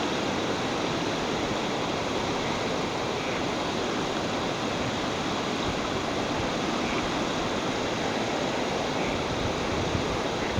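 Busra Waterfalls' falling water, a steady rushing noise that stays even throughout.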